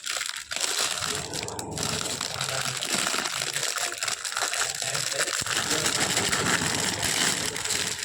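Product packaging being unwrapped and handled: dense crinkling and crackling of wrapping, briefly pausing about half a second and a second and a half in.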